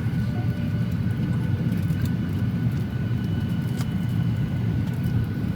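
Boeing 737-800 cabin noise: a steady low rumble with a faint, even whine above it.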